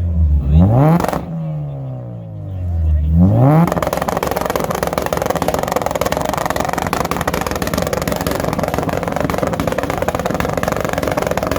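Car engine revved twice, pitch sweeping up and falling back each time, then held in a harsh, steady, fast-rattling blare for about nine seconds.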